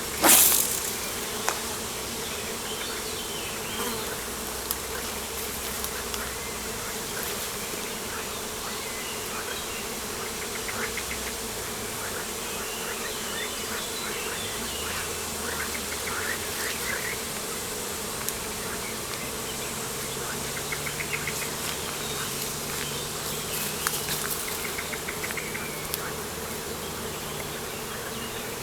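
Steady buzzing of flying insects, with small birds chirping here and there. A short, loud noise bursts out right at the start, and a faint low hum joins in during the second half.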